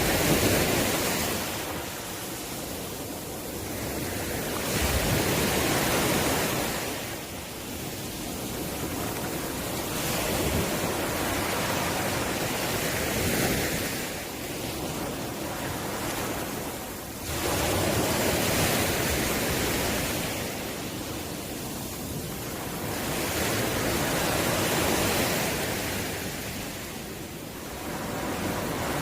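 Ocean waves breaking and washing up the shore, a rushing surge building and fading about every five seconds.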